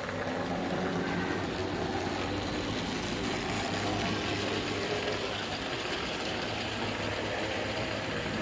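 Model train running on the layout: a steady hum from its small electric motor and wheels, which rises suddenly right at the start and then holds.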